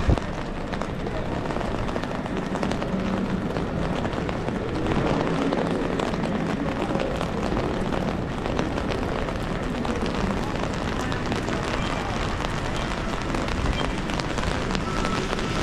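Steady rain on a city street: a dense patter of many small drop ticks over an even hiss, with indistinct voices of passersby in the background.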